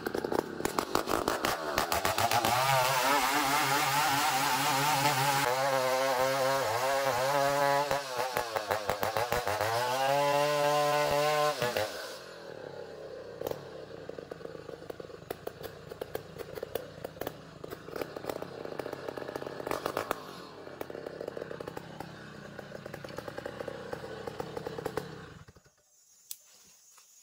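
Two-stroke chainsaw running at full throttle while cutting ulin ironwood, its engine pitch wavering under load. About twelve seconds in it drops to quieter, uneven running with scattered knocks, then goes almost quiet near the end.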